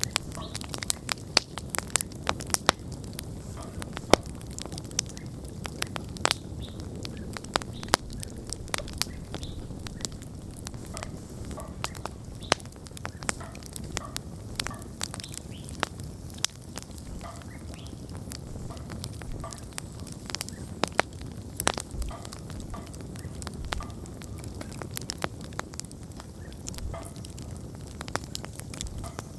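Wood campfire burning: sharp pops and crackles, thick in the first several seconds and more scattered later, over the low rush of the flames.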